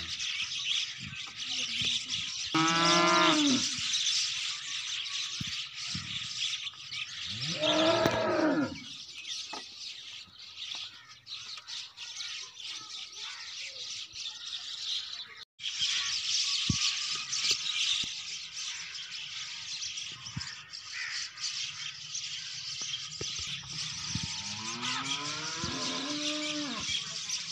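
Dairy heifers mooing: three long moos, about two seconds in, about eight seconds in, and again near the end, over a steady high hiss.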